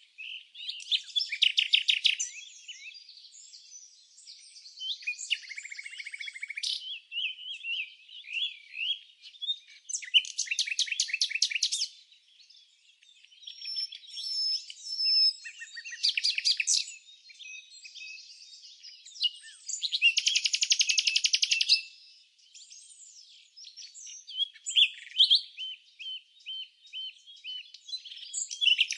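Songbirds chirping and singing, with loud, rapid, buzzy trills of one to two seconds recurring every few seconds, and varied short chirps and whistled notes between them.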